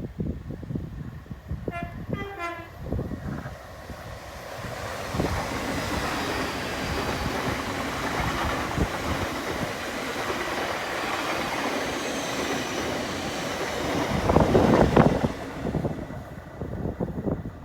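A train sounds two short horn notes, then passes at speed, giving a long rushing rail noise that builds to its loudest near the end before dying away.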